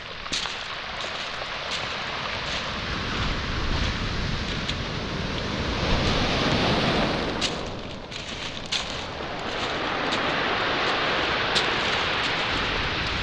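Waves breaking and washing over a pebble and boulder shore: a surge that swells to its loudest about six seconds in, eases briefly, then builds again, with scattered sharp clicks of stones.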